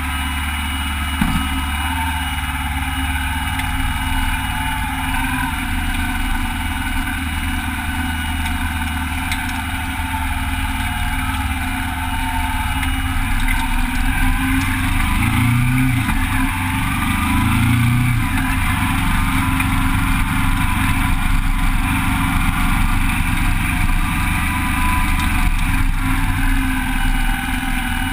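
Motorcycle engine running, picked up close from a handlebar-mounted camera: it idles steadily at first, then revs and pulls away at low speed, the pitch rising and falling a few times about halfway through.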